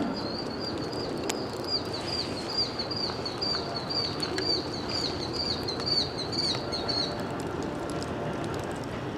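A songbird singing a long run of quick, evenly repeated high chirps, about three a second, stopping about seven seconds in, over a steady low rumble.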